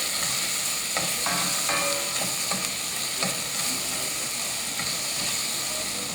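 Chopped onions sizzling steadily as they sear in hot olive oil in a pan, with a few short clicks from the pan or utensil.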